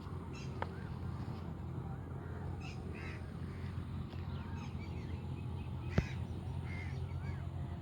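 Birds calling again and again over a steady low rumble. A single sharp click about six seconds in is the loudest sound.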